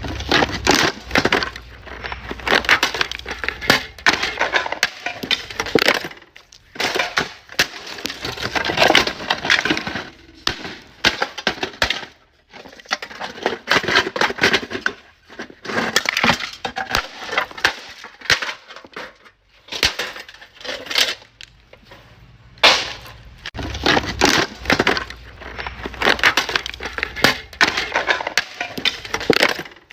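Dense crunching and cracking, many small breaking impacts in quick succession, coming in runs of several seconds with short pauses between.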